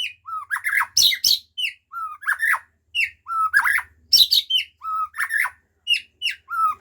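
White-rumped shama singing loudly, bringing out its learned 'isian' song material. A phrase of a short level whistle followed by quick falling notes repeats about five times, mixed with sharp high chips.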